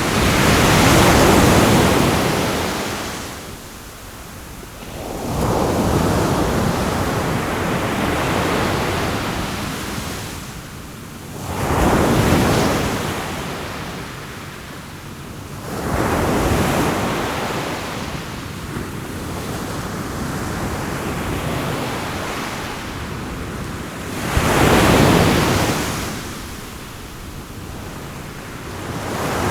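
Sea waves breaking on a shore, the surf swelling and fading in five or six waves a few seconds apart.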